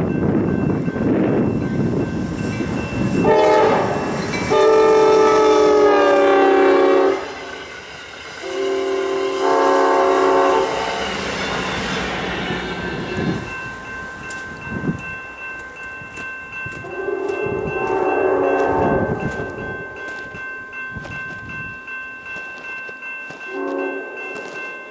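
Amtrak passenger train passing with its air horn sounding a chord in several blasts, mostly long with a couple of short ones. The heavy rumble of the train on the rails is loudest in the first few seconds.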